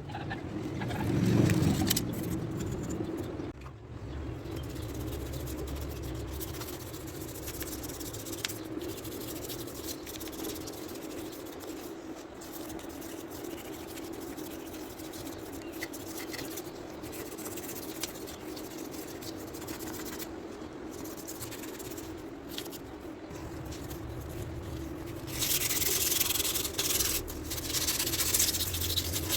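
Buffing machine running with a steady hum while its polishing wheel works on a Royal Enfield Bullet engine part. A louder, harsher rubbing hiss sets in about 25 seconds in.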